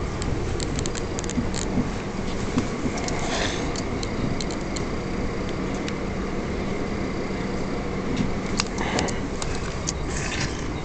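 Steady running noise inside a moving Electrostar electric multiple-unit train: wheels on rail with a low hum, and frequent light clicks and rattles.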